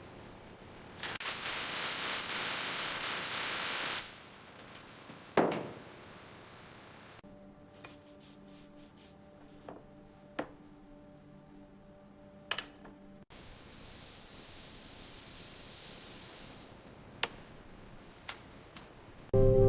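Two long hissing bursts of spray or air, the first about three seconds and louder, the second weaker, with scattered sharp clicks between them.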